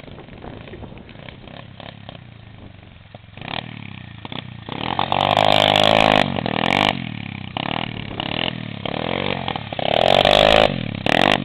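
125cc pit bike engine running at low revs, then revved hard from about three and a half seconds in. Its pitch rises and falls through several loud revs, with another hard rev near the end.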